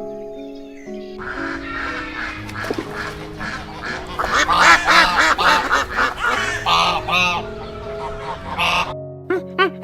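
A flock of waterfowl calling, with many loud overlapping honking calls from about a second in until they stop abruptly near the end. Background music with steady held notes plays underneath.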